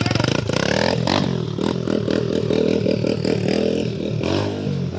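Small dirt bike engine running, revving up and down several times.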